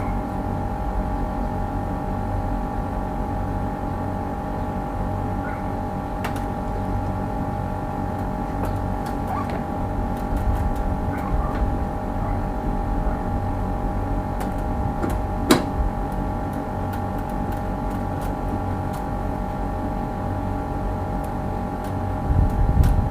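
A motor running steadily, a constant whine over a low hum, with a sharp click about fifteen and a half seconds in.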